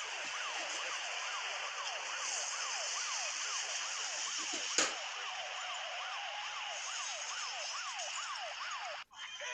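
A siren whose pitch sweeps quickly downward over and over, about two to three sweeps a second, over a steady hiss. There is a sharp click about halfway through, and the sound cuts off suddenly near the end.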